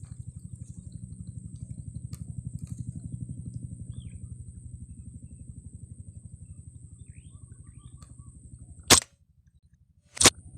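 Two sharp air rifle shots about a second and a half apart near the end, each a single loud crack. Before them runs a steady low rhythmic throb.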